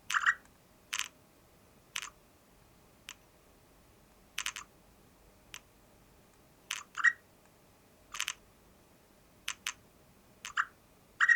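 About a dozen short, sharp clicks at irregular intervals over the near-silent floor of a de-noised field recording.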